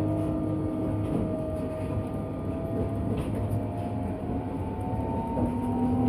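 Train running, with a steady low rumble and a whine that climbs slowly in pitch as it gathers speed.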